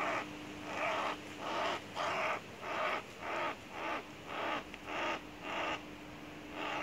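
Crow cawing over and over, about two harsh caws a second, with a short pause before a last caw near the end.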